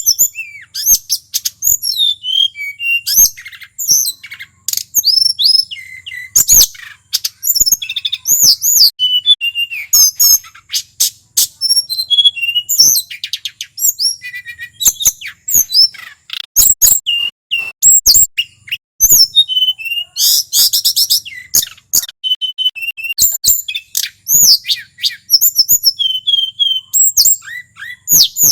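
Male hill blue flycatcher (tledekan gunung) in full song: a fast, unbroken stream of varied high whistled notes sliding up and down, with short rapid trills mixed in.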